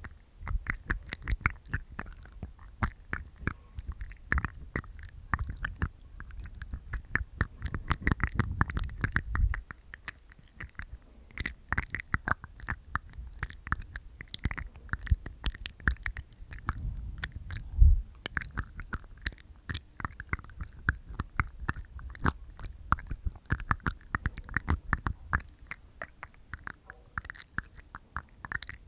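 Close-miked mouth sounds: a rapid, uneven stream of wet tongue clicks, pops and teeth taps inside the mouth, with an occasional low thump.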